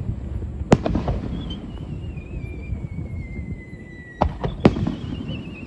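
Aerial fireworks bursting over a low rumble: a sharp bang about a second in, then a thin whistle sliding slowly down in pitch. Near the end come three quick bangs, followed by another falling whistle.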